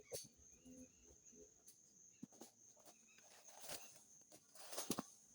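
Near silence: a faint, steady, high insect drone, with a few soft rustles near the end.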